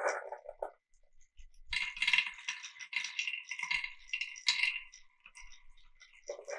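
Marbles running down a marble run: a short rolling rumble at the start, then, after a brief gap, a few seconds of bright clicking and clinking clatter as they knock along the track. A rolling rumble starts again near the end.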